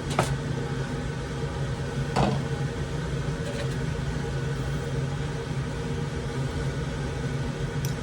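A steady low mechanical hum, with a few light clicks or knocks: one near the start, one about two seconds in, and one near the end.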